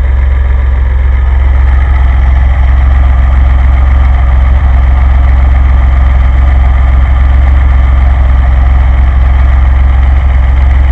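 DeLorean's PRV V6 idling steadily on a carburettor conversion, freshly started, heard close up in the engine bay with a strong, even low hum.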